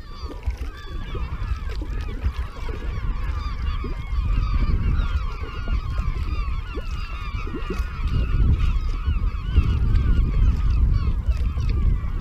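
A large flock of birds calling together, many short overlapping honking calls, over a steady low rumble.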